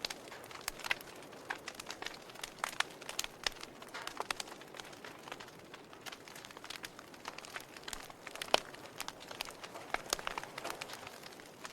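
Log fire in a fireplace crackling, with irregular sharp pops and snaps over a soft hiss, and one louder pop about eight and a half seconds in.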